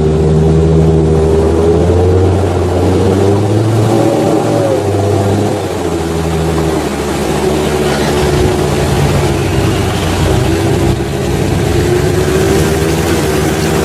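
Off-road 4x4's engine running under load, its pitch wavering up and down a little as it works over rough ground, easing briefly a little before halfway and again near the end.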